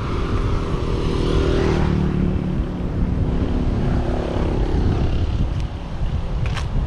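Motorbike engine running under way, its pitch shifting a little as the throttle changes, with heavy wind rumble on the microphone.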